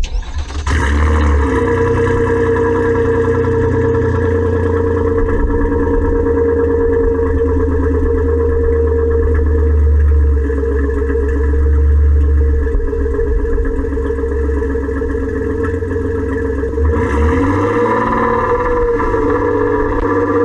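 A 2009 Nissan Murano's 3.5-litre V6 running at a steady idle through an exhaust with its catalytic converters and one resonator removed. Its tone shifts slightly about 17 seconds in.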